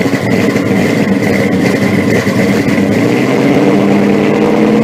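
A car engine running loudly and steadily, with a thin steady high-pitched whine over it; the engine note grows a little stronger near the end.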